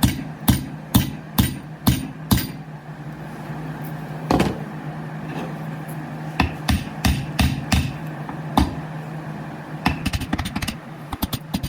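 Metal hammer blows on the brass head of an antique hammer, struck to shrink its mushroomed face: runs of sharp, ringing strikes about two a second with pauses between, ending in a quick flurry of lighter taps. A steady low hum runs underneath.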